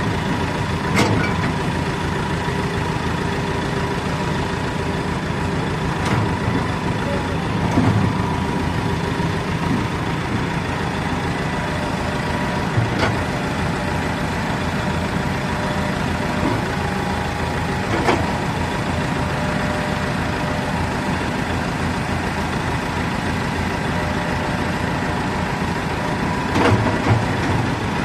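Tracked excavator's diesel engine running steadily as the machine climbs, with a thin steady whine over the engine and a few sharp knocks spread through.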